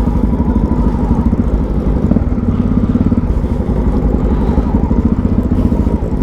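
Motorcycle engine running steadily at low speed, a fast even chugging, heard through a helmet-mounted microphone.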